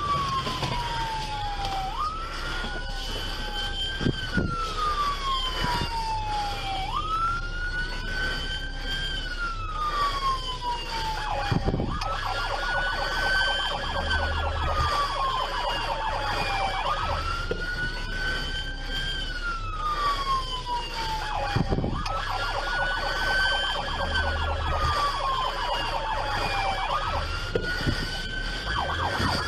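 Police car siren wailing, its pitch rising quickly and falling slowly in a cycle about every five seconds, with a few short knocks.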